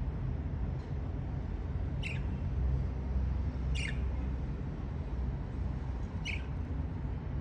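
Budgerigar giving short chirps that slide down in pitch, three times a couple of seconds apart, over a steady low rumble.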